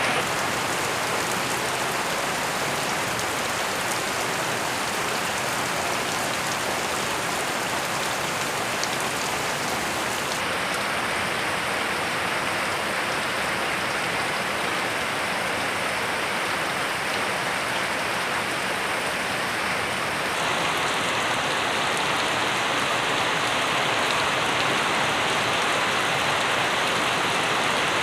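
Steady rain falling, an even dense hiss. Its tone changes abruptly twice, about a third and two thirds of the way in.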